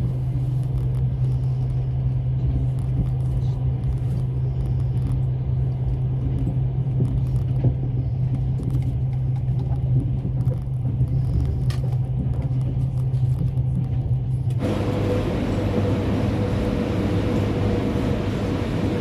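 Passenger train running, heard from on board: a steady low hum and rumble. About fifteen seconds in, the sound changes abruptly to a brighter, rushing rumble with a faint steady whine.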